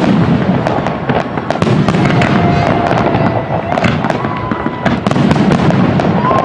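Fireworks display going off: a dense run of rapid crackling and popping over a continuous low rumble. A couple of held whistling tones run through the middle, each lasting about a second.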